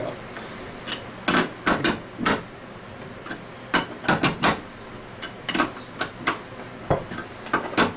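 Irregular sharp metallic clinks and taps, about fifteen spread unevenly, from a bearing puller and hand tools being worked to pull the bearings out of a scroll pump.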